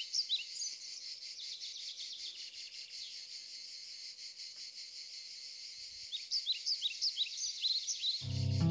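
Summer insects keep up a steady high-pitched chirring in an olive grove. A bird calls in quick, repeated high chirps at the start and again about six seconds in. Soft music comes in just before the end.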